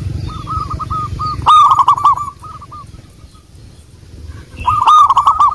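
Zebra dove (perkutut) cooing: rapid runs of short, arched coos, loudest in two bursts, one about a second and a half in and one near the end. Fainter chirps of small birds sound behind, and a low rumble runs under the first second and a half.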